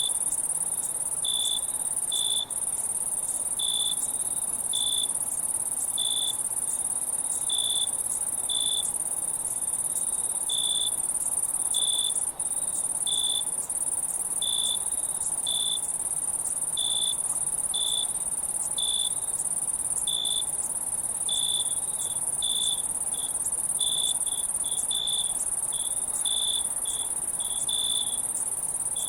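Insects at night: a steady, very high-pitched insect trill with a cricket chirping over it at a lower pitch, about once a second at first and quickening to two or three chirps a second near the end.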